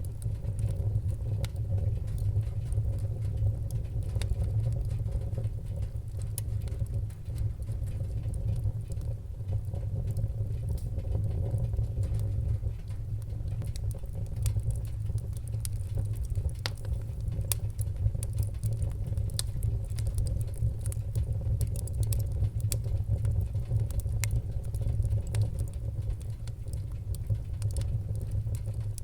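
Fireplace fire crackling: a steady low rumble of flame with many small, irregular crackles and pops throughout.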